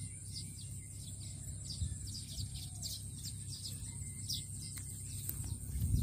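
Small birds chirping, a quick run of short high notes about two or three a second, over a steady high hiss.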